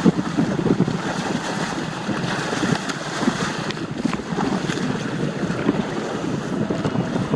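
Wind buffeting the microphone over water rushing and splashing against the hull of a Hobie Adventure Island sailing kayak under sail in strong wind.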